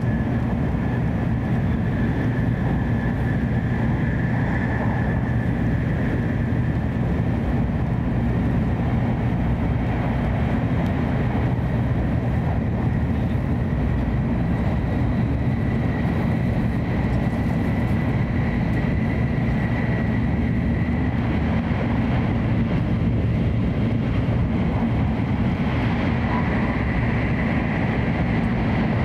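Steady running noise of a Hokuriku Shinkansen train at speed, heard inside the passenger car: a deep, even rumble with a faint high whine that rises slightly and then holds.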